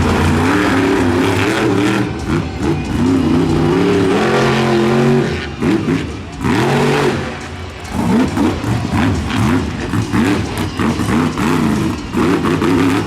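Monster truck engine revving hard during a freestyle run, its pitch climbing and falling again and again as the throttle is worked, with a couple of brief drops in loudness about six and eight seconds in.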